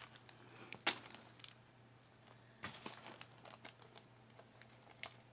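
Small items being handled: scattered light clicks and crinkles, one sharper click about a second in, over a faint steady low hum.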